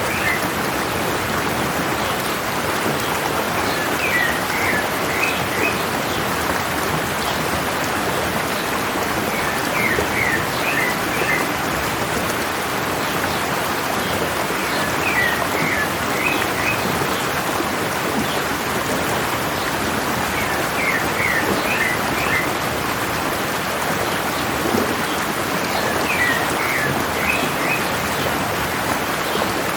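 Mountain stream running steadily, with a songbird repeating a short phrase of a few high notes about every five to six seconds.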